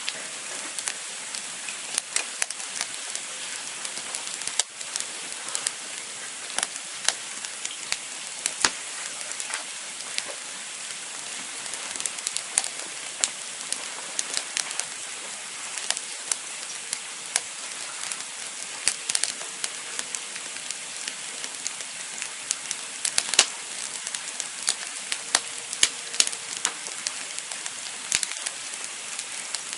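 Wood campfire crackling: a steady hiss with frequent sharp pops and snaps.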